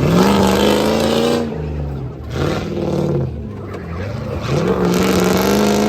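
Truck engine at full throttle on a tough-truck course, revving up, holding and dropping back three times as the driver works the throttle.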